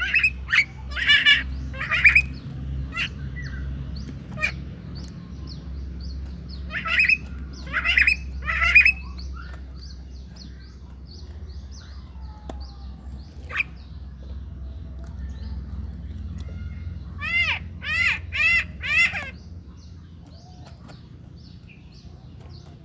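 Bird calls: short, repeated calls in clusters, a few at the start, three more in a row in the middle and a run of four near the end.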